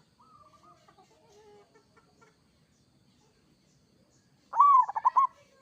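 Zebra dove (perkutut) cooing: one loud, short run of quick rolling notes about four and a half seconds in, after fainter bird calls.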